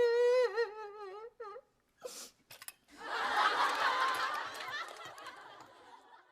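A voice holds a long, wavering, humming note for about a second and a half. About three seconds in, laughter starts and fades out over roughly three seconds.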